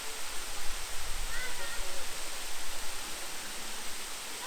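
Steady rush of a waterfall, the Great Waterfall of Sofiyivka Park, with faint voices of people nearby.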